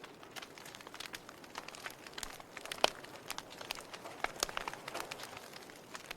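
Log fire crackling in a fireplace: irregular sharp pops and snaps over a faint hiss, with one louder pop about three seconds in.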